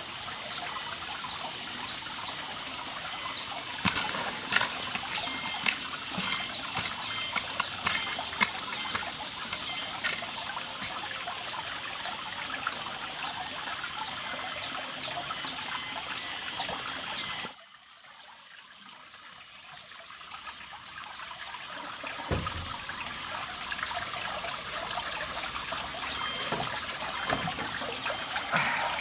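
Water trickling and splashing, with many small sharp splashes or clicks. It drops away suddenly about two-thirds of the way through, then builds again.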